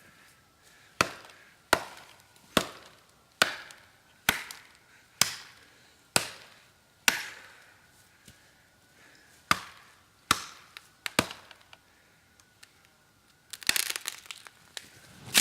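A CPM 3V steel golok chopping into a tree trunk: about eleven sharp strikes, a little under a second apart, with a short pause midway. Near the end comes a dense burst of cracking and splintering as the tree gives way.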